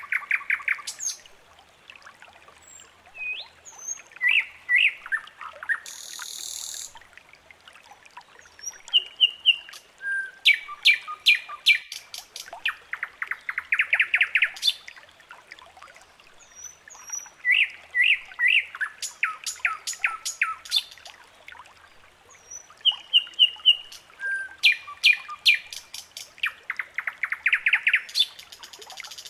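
Songbird singing: repeated phrases of sharp chirps and fast trills, coming in bursts every few seconds.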